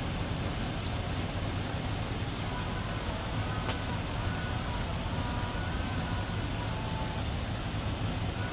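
Steady low rumble of a motor vehicle, with faint short tones in the background and a single sharp click partway through.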